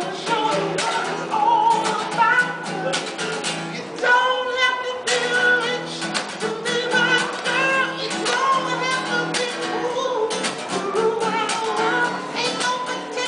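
A man singing a song with guitar accompaniment, held notes that bend in pitch over steady rhythmic strumming.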